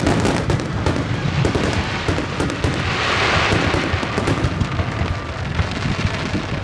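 Aerial fireworks going off: rapid bangs and crackling, swelling into a dense hissing crackle about three seconds in.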